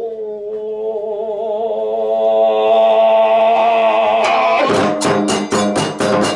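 A long, drawn-out chanted vocal note with a wavering vibrato is held for about four seconds. Then a run of drum and cymbal strikes comes in, about three a second.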